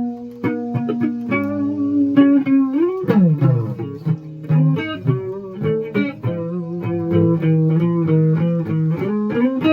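Electric guitar being played: a run of picked notes and held notes, with a sweeping drop in pitch about three seconds in.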